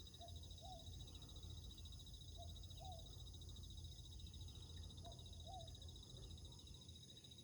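Faint animal chorus: a steady, finely pulsing high trill, and a short two-note call that repeats about every two and a half seconds.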